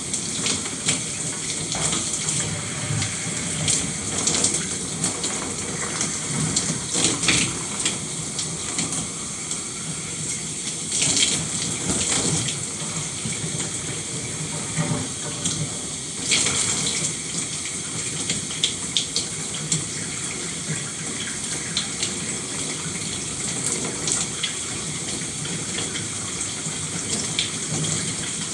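Shower running steadily, water spraying and splattering with irregular louder splashes.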